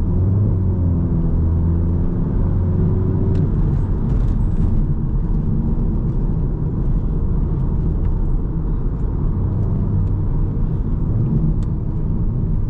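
Mk7 Volkswagen Golf R's 2.0-litre turbocharged four-cylinder engine heard from inside the cabin while driving, over steady road rumble. The engine note shifts in pitch during the first few seconds, then settles into a steady cruise.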